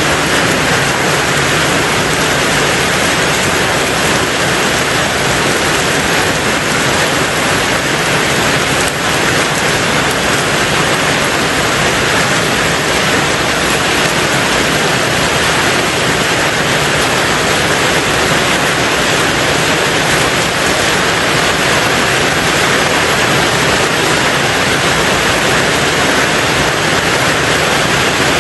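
Steady rain falling on a tin roof, a dense even patter that doesn't let up.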